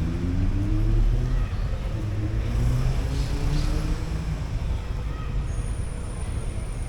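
Street traffic: a motor vehicle's engine running and rising in pitch as it accelerates past, fading after about four seconds. A thin high whine comes in near the end.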